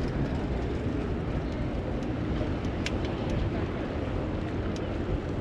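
Steady low rumble of city street traffic, with a couple of faint short clicks.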